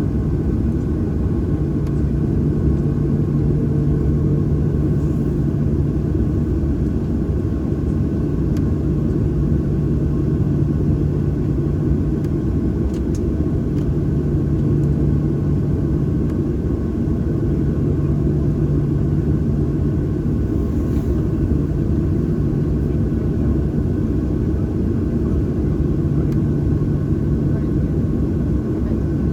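Cabin noise of a Boeing 737-800 with its CFM56-7B engines at idle: a steady rumble with a low hum that swells and fades every few seconds.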